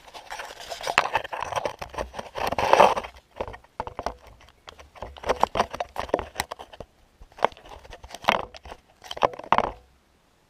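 Kioti CK20S compact diesel tractor being cranked on the starter in several rough bursts of a second or two, not catching: a hard cold start after a month standing in freezing weather. The cranking stops shortly before the end.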